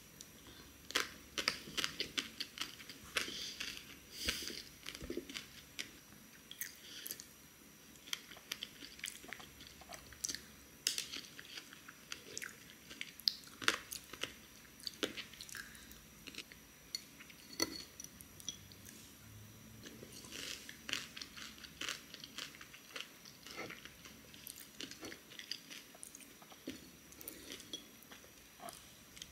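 Close-miked chewing with many irregular crisp crunches and bites: a person eating coconut chips, strawberries and a maple-pecan cake with Greek yogurt.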